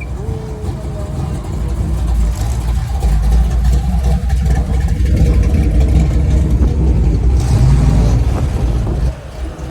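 Classic American car's exhaust rumbling loudly as it drives past, building over the first couple of seconds and falling away sharply near the end.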